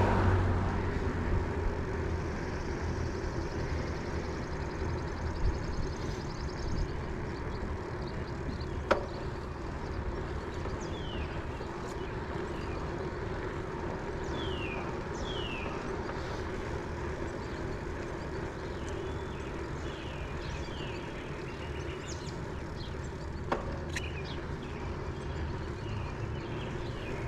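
Steady outdoor road noise, a low rumble of traffic and moving air, with a few short, high, falling bird chirps about halfway through and two sharp clicks.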